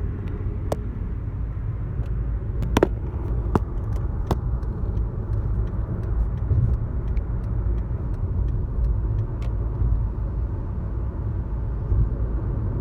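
Steady low road and engine rumble inside a moving car's cabin, with a few sharp clicks in the first few seconds.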